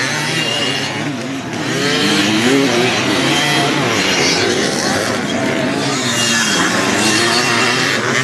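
Racing motorcycle engines running and revving on the track, their pitch rising and falling continuously, with people talking in the background.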